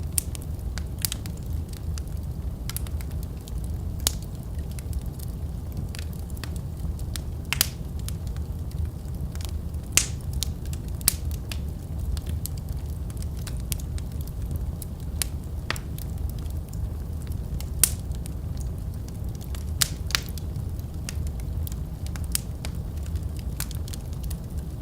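Wood fire crackling in a fireplace: a steady low rumble of flames with irregular sharp pops and snaps, a few louder ones scattered throughout.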